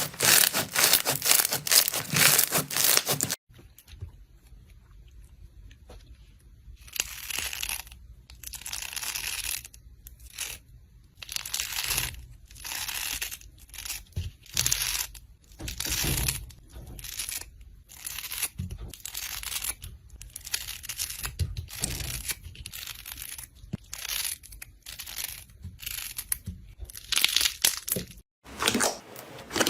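Slime being squeezed and pressed by hands, with a dense run of crackling for the first three seconds or so. After a short lull come separate squishing, crackling presses, about one a second.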